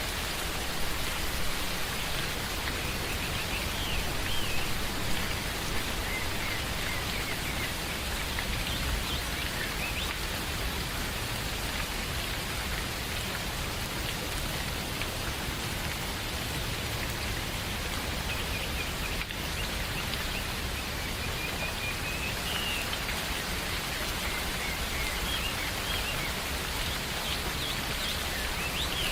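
Steady rain falling in a forest, with birds chirping now and then over it, mostly early on and again near the end.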